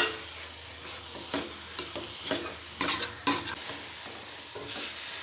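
Grated radish sizzling in ghee in a steel pan on full flame while a metal spoon stirs it, with several sharp scrapes of the spoon against the pan over a steady frying hiss. The moisture the radish gave off is being cooked away as it is roasted.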